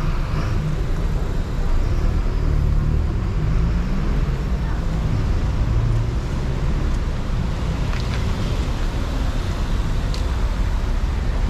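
Steady city street traffic: a constant low rumble of cars going by.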